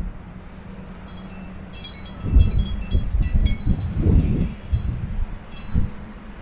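Wind chimes tinkling: an irregular scatter of bright, ringing strikes at several pitches, starting about a second in and dying away near the end, with a few low rumbles of wind underneath.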